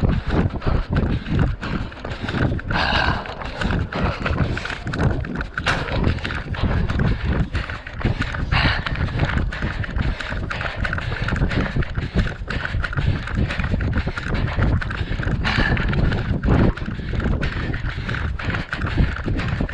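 A runner's footfalls and a GoPro jolting with each stride during a 10 km race, a quick even beat of about three steps a second.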